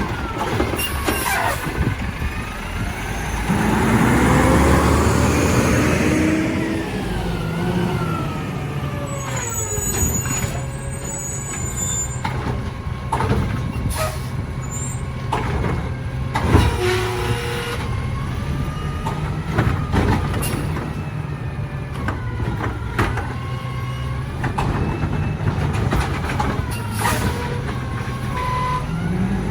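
Mack LR garbage truck with a Heil Durapack Rapid Rail side-loader body at work: the engine runs steadily and revs up for a few seconds near the start, with air-brake hisses, sharp clanks and gliding squeaks throughout.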